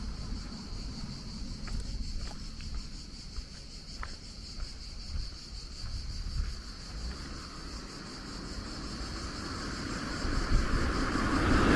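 Steady high-pitched chirring of insects, crickets or cicadas, over low wind rumble on the microphone. Near the end a rushing noise swells louder, like a vehicle passing.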